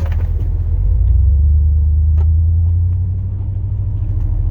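Chevrolet Silverado's 8.1-litre big-block V8 gas engine running with a deep, steady rumble that swells for a couple of seconds as the plow truck pushes snow, with a faint click about two seconds in.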